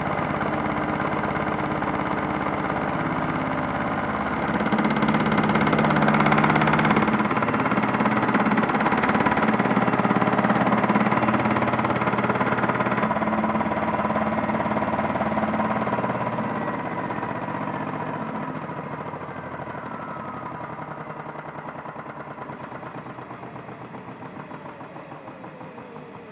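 Small motor of a modified Miele toy washing machine spinning its drum at high speed in a spin cycle. It gets louder about five seconds in, then slows with a falling whine and fades over the last ten seconds as the drum winds down.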